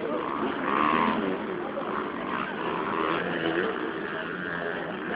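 Motocross bike engines running at a race track, mixed with people talking.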